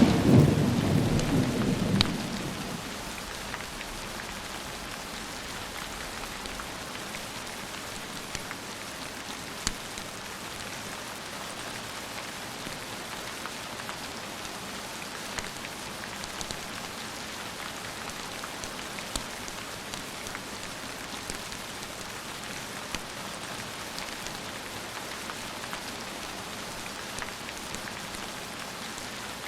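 A roll of thunder dies away in the first two seconds, leaving steady rain with a few scattered sharp clicks.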